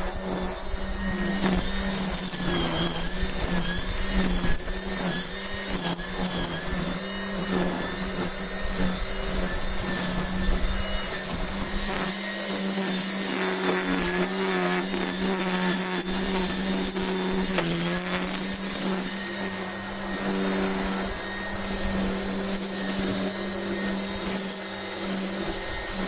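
A small motor running steadily, its hum shifting slightly in pitch a few times.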